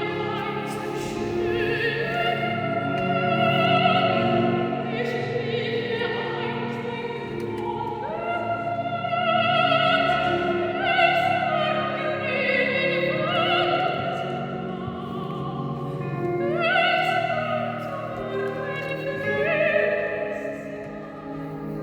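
A woman singing in a classical, operatic style, holding long notes with a wide vibrato, over instrumental accompaniment.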